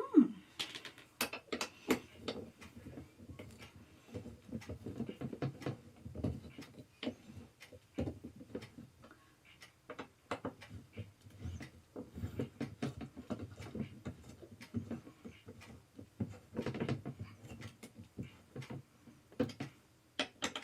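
Irregular light clicks, taps and rustling of a gaming chair being assembled by hand, as screws are fitted and turned into the other side of the chair.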